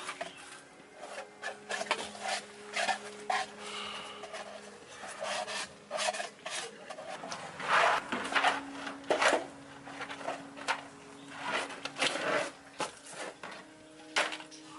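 Irregular rough rubbing or rasping strokes, like hand scraping or sanding, coming in uneven runs and loudest about halfway through.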